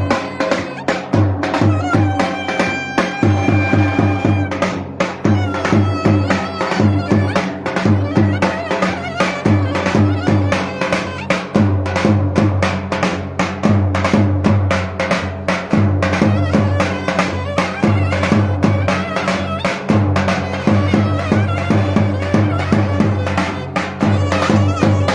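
Turkish davul and clarinet playing lively dance music. The davul's deep beats keep a steady, driving rhythm under the clarinet's melody, with a few long held notes about two seconds in.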